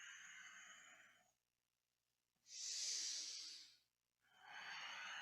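A person breathing deeply and audibly in time with a slow yoga stretch: three long breaths, the middle one louder and hissier than the others.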